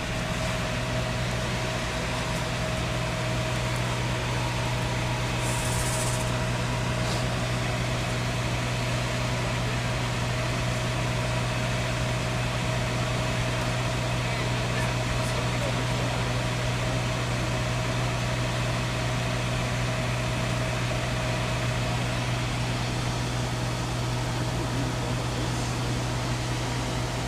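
A steady, unchanging low mechanical hum with a faint constant whine above it, and a brief hiss about six seconds in.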